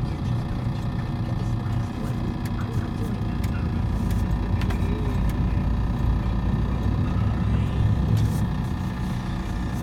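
Car driving on the road, heard from inside the cabin: a steady low rumble of engine and road noise with a few faint clicks.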